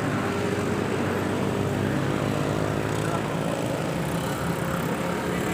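A motor vehicle's engine running with a steady drone.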